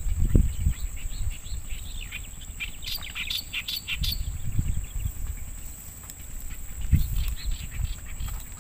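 Small birds chirping in quick, short, falling notes, busiest about three seconds in, over a steady high-pitched tone. Low rumbles break in at the start, again about four seconds in, and near the seven-second mark.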